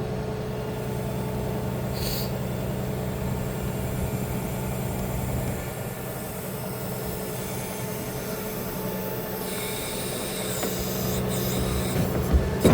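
Bucket truck's engine running steadily at an even pitch, driving the hydraulics as the boom is moved. A hiss joins about nine seconds in.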